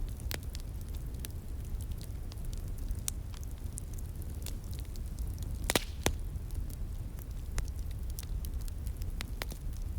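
Wood fire crackling, with scattered sharp pops and snaps; the loudest two pops come close together about six seconds in. A steady low rush runs underneath.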